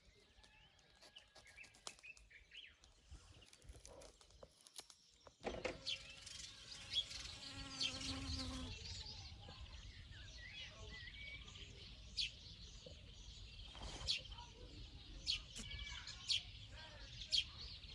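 Open-air ambience: an insect buzzing past and small birds chirping at intervals, over a low rumble.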